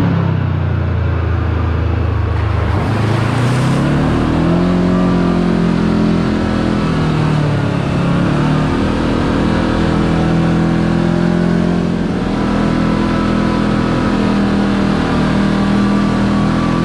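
Kawasaki KRX 4 side-by-side's parallel-twin engine under way: low at first, it speeds up about three seconds in, then cruises with its pitch easing down and rising again.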